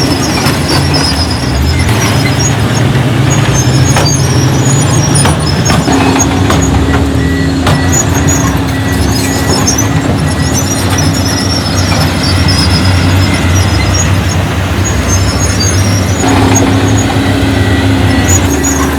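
Heavy diesel earthmoving machinery running steadily, its engine drone shifting slightly in pitch about six seconds in and again near the end. High squeaking chirps and a few metallic clanks come and go over the engine.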